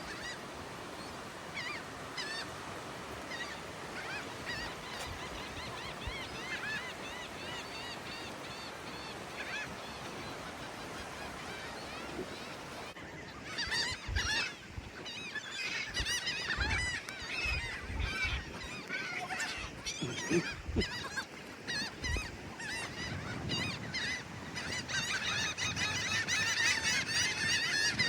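A flock of seagulls calling over one another in many short squawks, which grow louder and busier about halfway through. A few low thumps come through in the middle.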